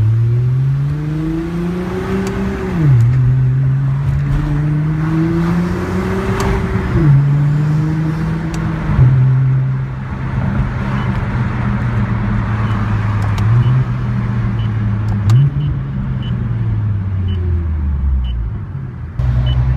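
2012 Nissan GT-R's twin-turbo V6, breathing through an SBD Race Spec exhaust and resonated midpipe, pulls up through the revs twice, dropping in pitch at each upshift. It then holds a steady cruise with two brief blips, and the revs fall away near the end.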